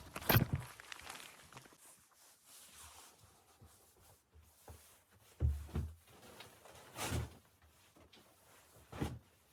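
A few separate knocks and thumps with quiet between them: the loudest right at the start, then others about five and a half, seven and nine seconds in.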